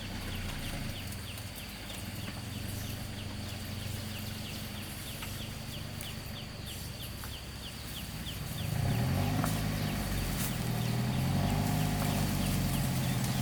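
Motor vehicle engine running at a low, steady note, then working harder from about nine seconds in, getting louder with its pitch wavering up and down. A regular high ticking or chirping sounds a few times a second through the first part.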